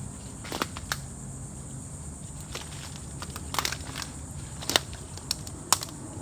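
Footsteps in boots pushing through dense brush, with twigs and stems snapping in about half a dozen sharp, separate cracks.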